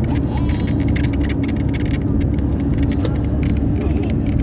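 Road and engine noise of a car driving along: a steady low rumble with a hum, and light ticks and rattles throughout.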